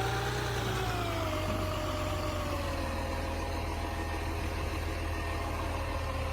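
Garbage truck's diesel engine running, its revs easing down over the first few seconds and then settling to a steady idle.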